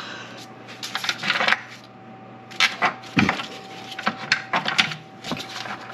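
Plastic engine-bay parts and a hose being handled and pushed into place: a scattering of short clicks, taps and light rattles in small clusters.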